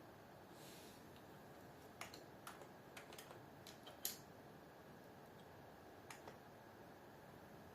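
Faint, irregular key clicks of someone typing on a computer keyboard, with a stronger keystroke about four seconds in.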